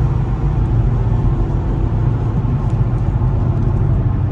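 2007 Infiniti G35 Coupe's 3.5-litre V6 with an aftermarket Motordyne exhaust running at a steady cruise: an even low drone with road noise, heard from inside the cabin.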